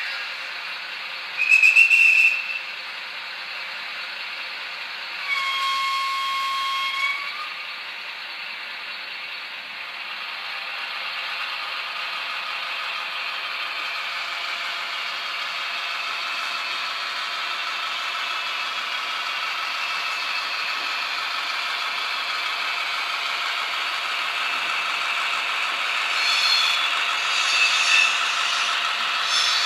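Sound decoder of a Bemo MK45 model locomotive through its small speaker. It gives a short high whistle blast, then a longer whistle of about two seconds, followed by the locomotive's running sound, which slowly builds, with some rattling near the end.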